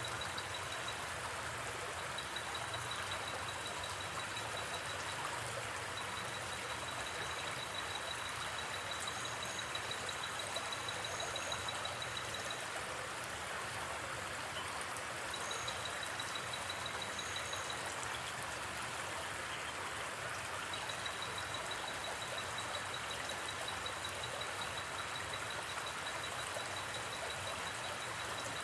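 River water flowing with a steady rushing babble. Over it an insect trills, a high rapid pulsing that starts and stops in runs of a few seconds.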